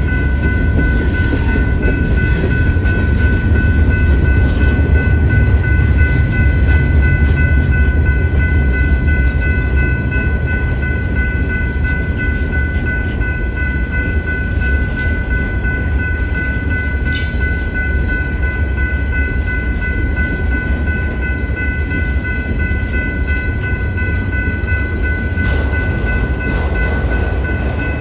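Freight cars rolling through a grade crossing: a steady low rumble of steel wheels on rail, with one sharp clank about halfway through. Over it the crossing warning bell rings on without a break.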